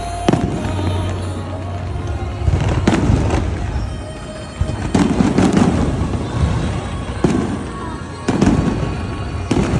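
Aerial fireworks going off, a string of sharp bangs and deeper booms about every second or two, over music playing in the background.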